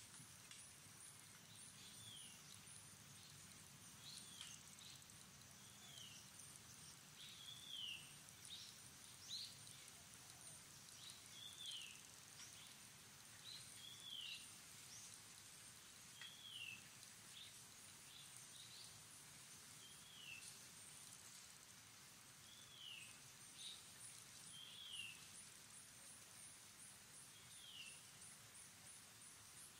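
Faint outdoor ambience: a bird repeating short, high, falling chirps about every two seconds, with a few quick upward notes between them, over a steady high-pitched hiss.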